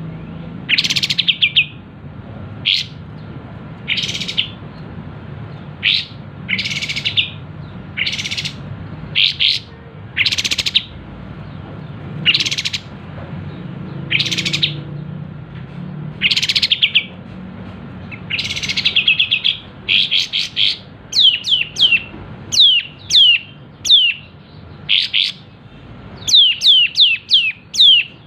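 Sooty-headed bulbul singing loudly: short bright chirping phrases every second or two, then, from about two-thirds of the way in, a quick run of falling whistled notes several to the second. A steady low hum lies underneath.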